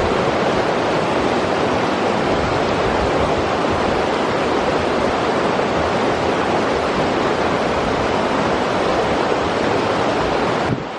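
River water flowing, a steady rushing noise with no breaks, dipping briefly in level near the end.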